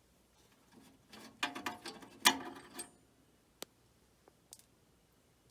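A screwdriver working a small metal screw loose on the furnace's flame-sensor bracket: a run of metallic scraping and clicking about a second in, then three separate sharp ticks.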